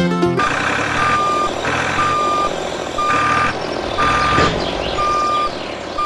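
Vehicle reversing alarm beeping, a single steady tone about half a second long repeating roughly once a second, over a continuous noisy background.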